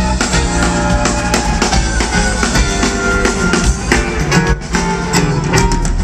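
Live rock band playing an instrumental passage, with guitar over a steady drum beat, recorded loud through a small camcorder microphone.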